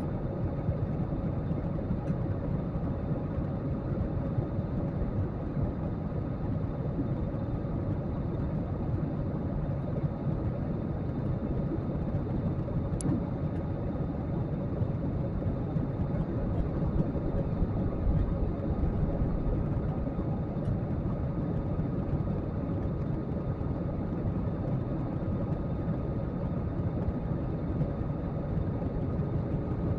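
Steady cabin noise inside a jet airliner in flight: a constant low drone of engines and airflow, with a few faint steady hum tones above it.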